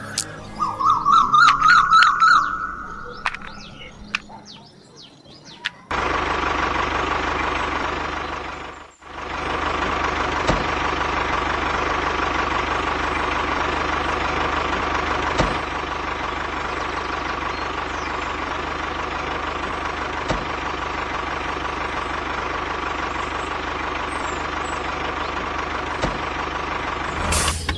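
A couple of warbling, whistle-like chirps, then from about six seconds in a motor running steadily with a droning hum. The motor sound dips out briefly near nine seconds and cuts off just before the end.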